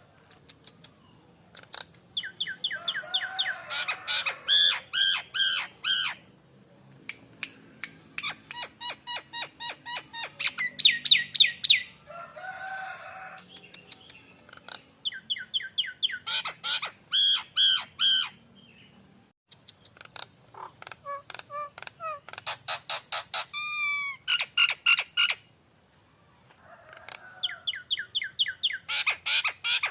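Jalak Nias starling singing in repeated bouts of rapid, clicking whistled notes, each a few seconds long with short pauses between, mixed with a few harsh squawky calls and a falling whistle about two-thirds of the way through. It is the loud, busy song used as a pancingan (lure) recording to coax caged birds into singing.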